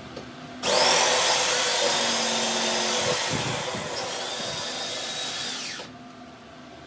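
An electric power tool runs for about five seconds, starting and stopping abruptly, with a high motor whine over a harsh noise; the whine drops in pitch about halfway through and again just before it stops.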